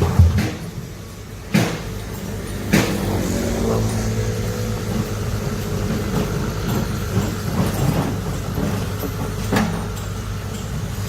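Large excavator's diesel engine running under load, with a few sharp knocks about one and a half, three and nine and a half seconds in.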